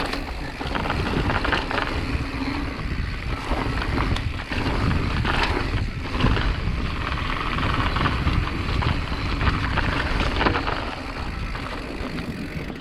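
Mountain bike rattling and knocking over rough ground on a downhill run, with wind rushing over the microphone.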